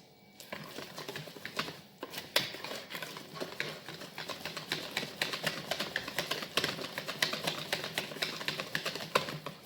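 Semolina batter being stirred by hand in a bowl, the utensil clicking rapidly and irregularly against the bowl's side.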